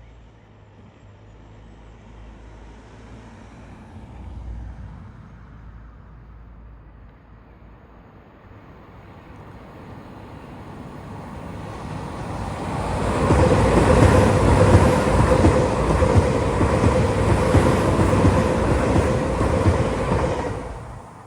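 Train approaching and passing close by, building to a loud rush of wheels on rail with a steady hum through it. It cuts off suddenly near the end.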